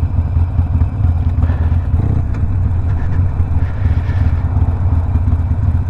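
Harley-Davidson Sportster Iron 1200's air-cooled V-twin engine running while riding, heard through a Two Brothers 2-into-1 aftermarket exhaust as a loud, steady, deep exhaust note.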